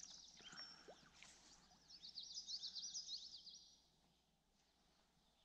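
A small songbird singing faintly: a quick run of high chirping notes starting about two seconds in and lasting under two seconds, then near silence.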